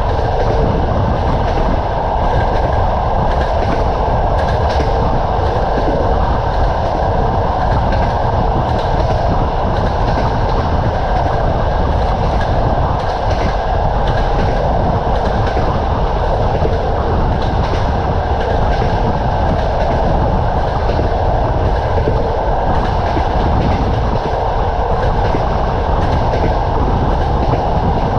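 Train wheels running steadily along the rails, a continuous rumble with the clickety-clack of the wheels over rail joints, heard from a moving train.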